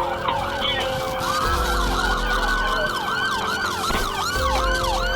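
Several police car sirens sounding at once, overlapping slow wails and quicker yelps at about three sweeps a second.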